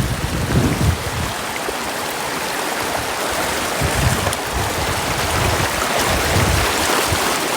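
Brook water rushing and splashing steadily, with a few low thuds underneath.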